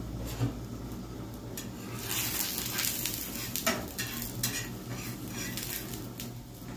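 Sandwich frying in oil on an iron tawa. About two seconds in the sizzle rises, and a steel spatula scrapes and taps against the pan in short clicks for a few seconds.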